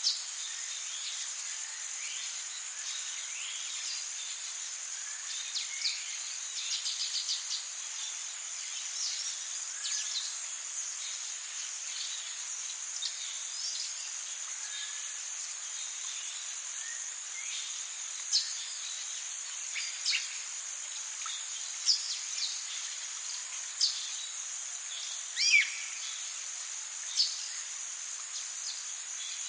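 Rainforest insects keep up a steady high-pitched chorus, with scattered bird calls over it: short falling whistles and chirps. A quick trill of about eight notes comes around seven seconds in, and several louder single calls come in the second half.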